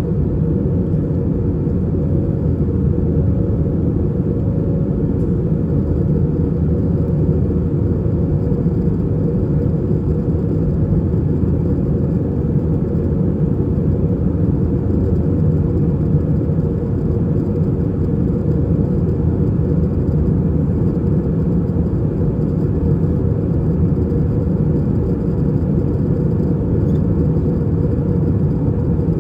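Cabin noise of an Airbus A320 in flight: the steady low roar of its IAE V2500 turbofan engines and the airflow over the fuselage, with a faint steady hum.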